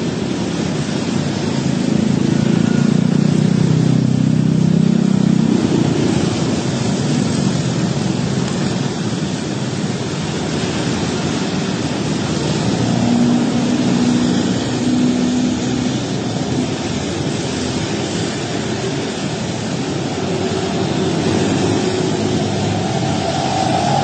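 Steady road and traffic noise with a low engine hum that swells about two seconds in and fades by six seconds.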